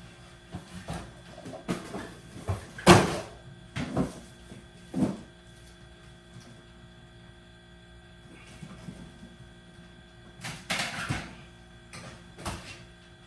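Scattered knocks and clunks during garage door installation work, the loudest about three seconds in and another group near the end, over a steady hum.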